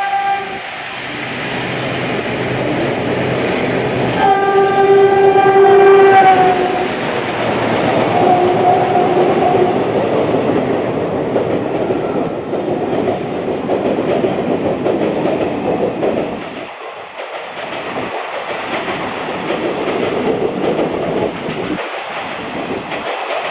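A WDG-3A Alco diesel locomotive passes at speed, sounding its horn: a brief note at the start, a long blast about four seconds in that sags slightly in pitch at its end, then a shorter, lower note. The passing coaches follow with a steady clickety-clack of wheels over rail joints.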